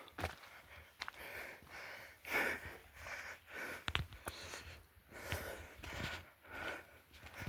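Footsteps on a trail, about one step every two-thirds of a second, with the walker's breathing and a few sharp clicks.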